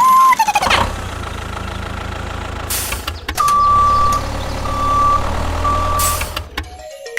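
A heavy vehicle's engine running low and steady while a reversing alarm beeps three times, with two short bursts of hiss like an air brake. A brief high tone opens it.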